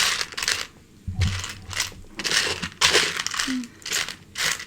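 Rummaging through Lego pieces and their plastic packaging: a crinkling rustle in a series of short bursts with brief pauses between.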